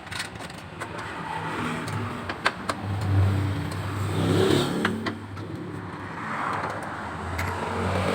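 Honda Beat scooter's small single-cylinder engine running, its revs swelling up and back down about three times, with a few sharp clicks between.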